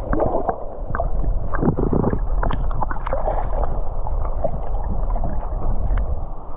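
River water rushing and gurgling around a wading angler, with a low wind-like rumble, and several short splashes and knocks in the first couple of seconds as a hooked grayling is brought in through the shallows.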